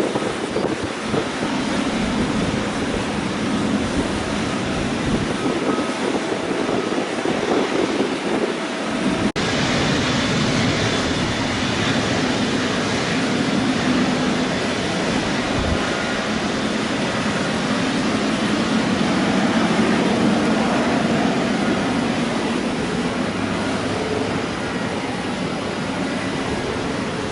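Boeing 777 jet engines at takeoff power on departure, a steady jet noise with faint steady whining tones over it and wind on the microphone. There is a brief break about nine seconds in.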